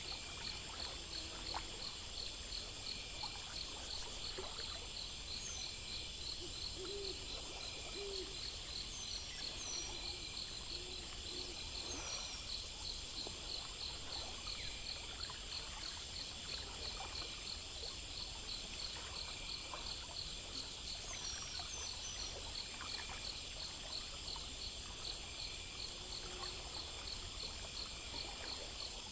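Nighttime nature ambience: insects keep up a steady, fast-pulsing high chorus, a few short low hooting calls come now and then, and there are brief high chirps over a soft low rush.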